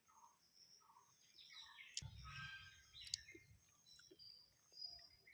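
Faint chirping of small birds, many short overlapping calls, with a low rumble coming in about two seconds in and a few sharp clicks.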